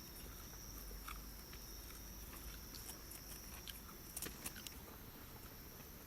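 Faint chewing and gnawing on grilled ribs, with scattered small clicks, over a steady faint high tone that stops a little before the end.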